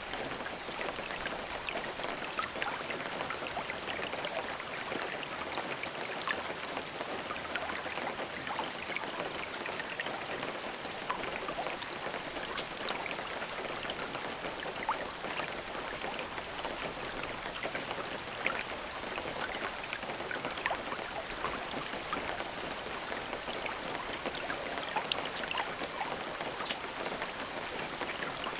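Steady rain falling, an even hiss with many separate drops ticking through it; no thunder.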